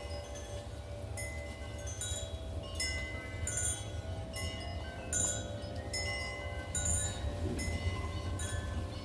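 Wind chimes struck irregularly by gusts, several notes ringing on and overlapping, over a steady low rumble.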